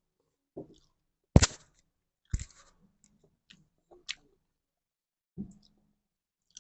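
Mealtime handling noises: scattered clicks and knocks of tableware, the loudest a sharp knock about a second and a half in, with a few softer thumps between.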